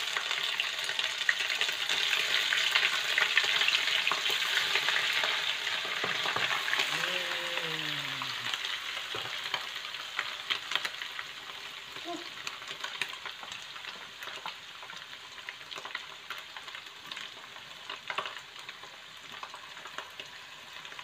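Small dried anchovies (teri Medan) frying in hot oil in a wok: a dense sizzle with scattered crackles and spatula stirring, loudest in the first few seconds as the fish go into the oil and gradually dying down.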